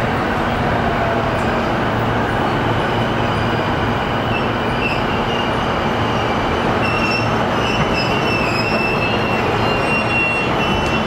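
Keihin-Tohoku Line E233-series electric commuter train running, heard from inside the car as a steady rumble and hiss. From about four and a half seconds in until near the end, a thin high squeal of steel wheels on rail wavers over it.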